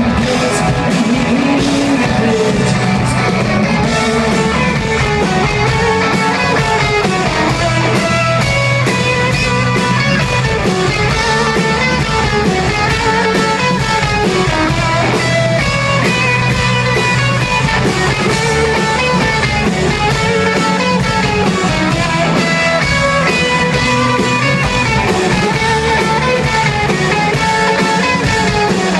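Live band playing an instrumental passage of a country-rock song, with guitar leading over bass and drums.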